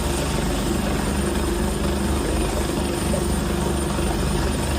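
Medevac helicopter running steadily, the fast even beat of its rotor blades over a constant engine hum.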